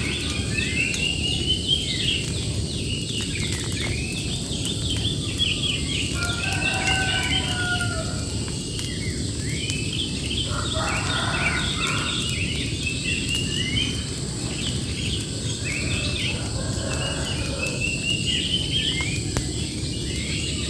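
Several birds chirping and singing in a dense chorus of quick high notes, with a few longer, lower whistled phrases, over a steady low background noise.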